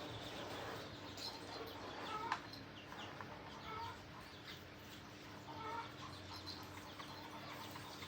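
Chickens clucking softly, short calls every second or two, over a faint steady hum, with one sharp tap a little after two seconds in.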